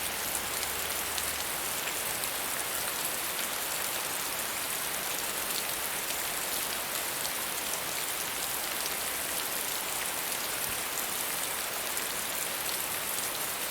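Steady, moderate rainfall, with many fine drop ticks on a surface.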